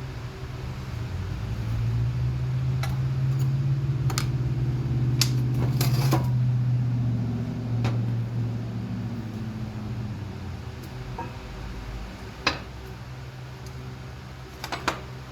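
A low mechanical hum that swells over the first few seconds and dies away about ten seconds in, with scattered sharp metallic clinks and knocks.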